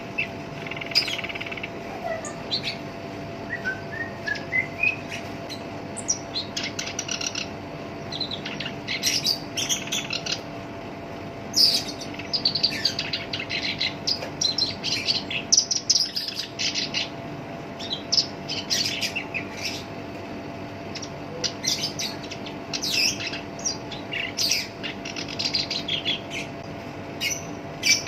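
Black-browed reed warbler singing continuously: a harsh, scratchy song of rapid chattering phrases, with a short series of rising whistled notes early on.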